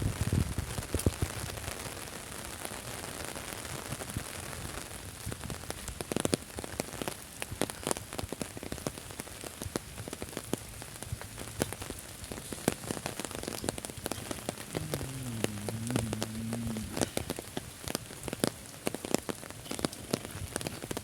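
Rain falling and pattering on surfaces, with many separate drop taps. A low thump comes right at the start, and about fifteen seconds in a low hum sounds for about two seconds.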